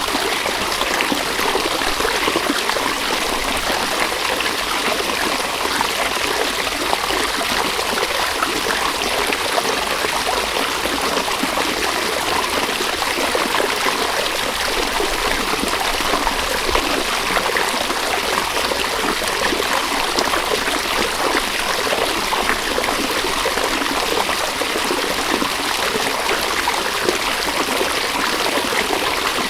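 River water flowing steadily, an even, unbroken rushing and trickling.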